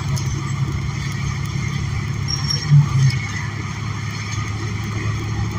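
Steady running drone of a New Flyer XN40 transit bus heard from inside while riding: its Cummins Westport L9N natural-gas engine and road noise. Two short low thuds come a few seconds in.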